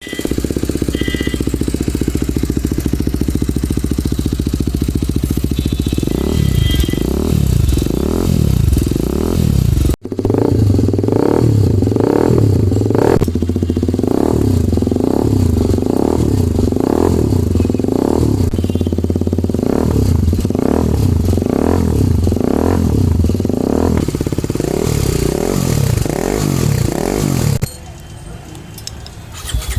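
TVS Apache RR310's single-cylinder engine through an aftermarket full-system exhaust, idling steadily at first and then revved in repeated short throttle blips, about one a second, with a brief break about ten seconds in. Near the end the sound drops much quieter.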